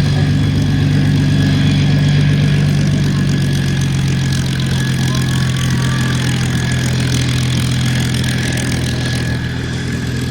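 An engine running steadily with a deep, even drone that fades slowly over the last few seconds.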